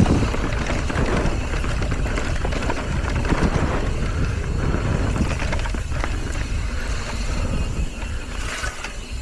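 Wind rushing over the microphone and a mountain bike rattling as its tyres roll over rough, rocky trail at speed.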